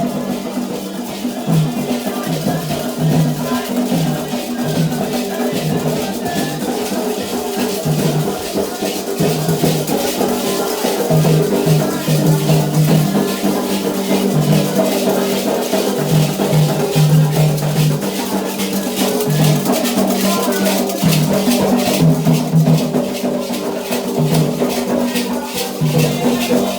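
Candomblé ritual drumming: atabaque hand drums played in a fast, steady rhythm, with a shaker rattling along.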